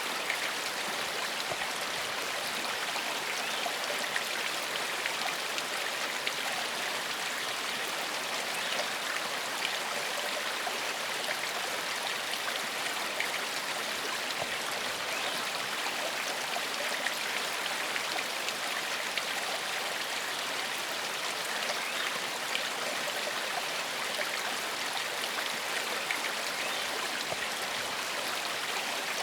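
Small forest stream flowing steadily over rocks, an even rush of water with many small splashes and drips.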